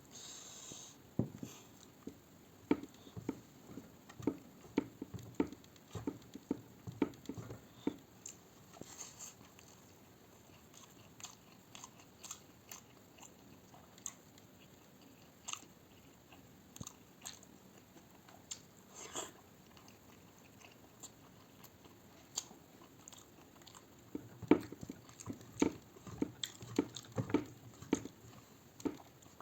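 A person chewing and biting food, with quick runs of crunchy chewing clicks during the first eight seconds and again from about 24 seconds in, and only scattered small clicks in between.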